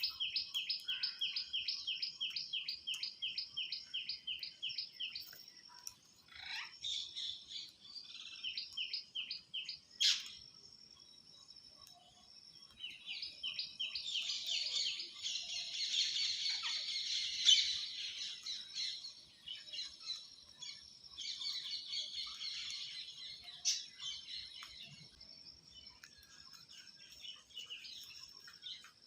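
Birds chirping: long runs of high, fast, evenly repeated chirps, about four or five a second, with a busier stretch of overlapping chirps in the middle and a single sharp click about ten seconds in.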